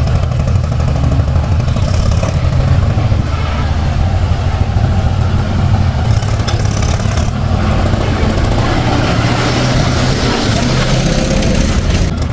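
Heavy diesel engine running steadily with a low, even note.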